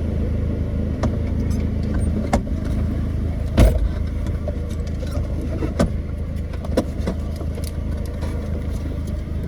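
Straight-piped Ford Focus engine, with no muffler or resonator, running steadily with a low drone. Scattered sharp clicks and knocks sound over it, the loudest about three and a half seconds in.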